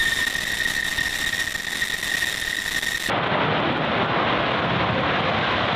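Jet engine running with a steady high whine over a rushing hiss; about three seconds in, the sound cuts abruptly to a steady, duller jet roar.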